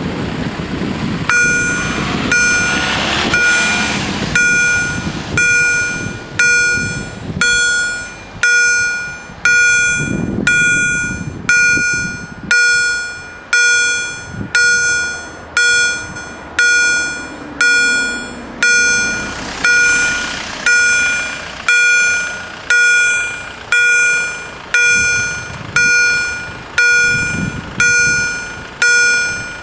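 Level crossing warning bell ringing about once a second, starting about a second in, each stroke ringing out and fading before the next. Road vehicles pass now and then underneath.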